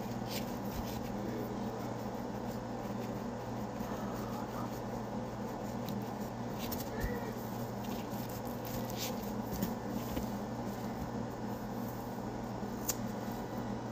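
A few sharp clicks from a kitchen knife cutting a potato spiral down to its wooden skewer, over a steady low hum.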